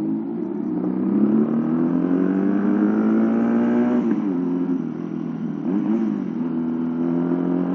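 Home-built two-cylinder motorcycle engine, made from two small underbone engines joined together, pulling under acceleration: its pitch climbs for about four seconds, drops sharply, dips again about six seconds in, then holds steady. It has a note said to sound just like a four-cylinder.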